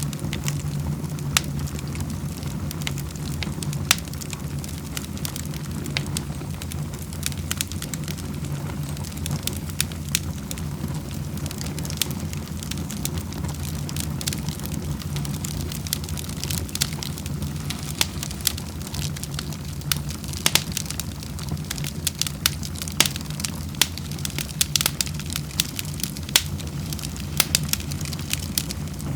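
Wood fire crackling in a fireplace: irregular sharp pops and snaps over a steady low rumble, the pops coming thicker in the last third.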